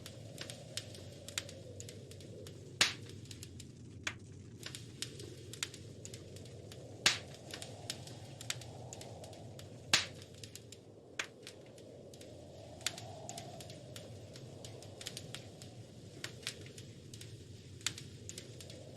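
Wood fire crackling in a fireplace: irregular small snaps and ticks with three louder pops, over a low steady rush.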